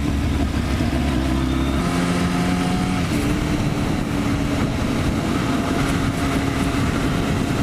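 Motorcycle engine running under way, mixed with wind rushing over the helmet microphone; the engine note steps up in pitch twice in the first few seconds.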